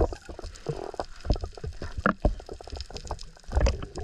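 Sea water sloshing and gurgling close to the microphone, with irregular knocks and thumps.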